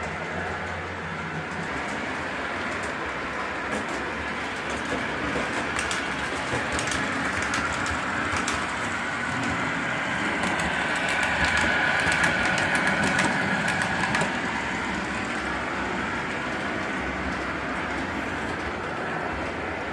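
Model passenger train running on garden railway track, its wheels clicking over the rail joints, getting louder in the middle as it passes close and then easing off.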